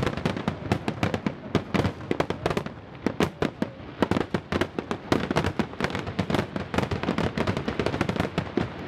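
Fireworks display: rapid, dense volleys of aerial shell bursts and crackling, many bangs a second with no let-up.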